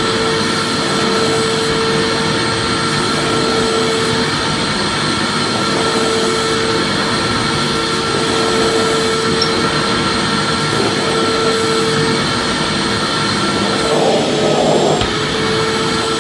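Vacuum cleaner running steadily: an even, continuous rushing noise with a constant mid-pitched motor tone that drops out briefly now and then.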